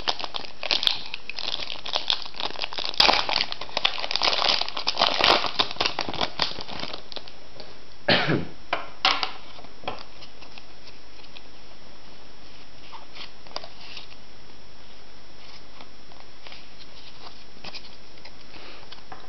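Foil trading-card booster pack wrapper crinkling and tearing open for about the first seven seconds. Then two short coughs, about eight and nine seconds in, followed by faint card handling.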